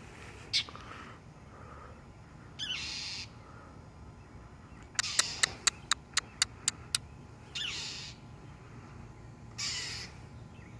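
A mother bird scolding: a quick series of sharp clicking call notes, about four a second, and several short harsh rasping calls, the alarm calls of a bird defending its young from a cat.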